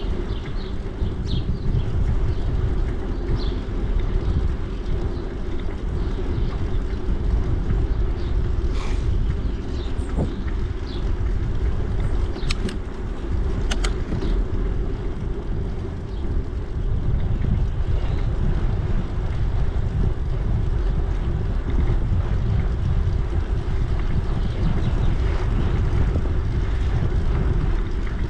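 Wind buffeting the microphone and a steady rumble from a bicycle riding along a trail, running throughout.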